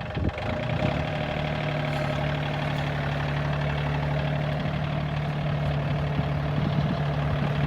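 Tractor engine running steadily at an even speed, coming up over the first second and then holding a constant low drone.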